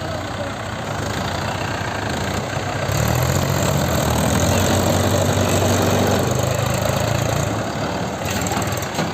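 Mahindra tractor's diesel engine running. It grows louder about three seconds in and eases back down about a second and a half before the end.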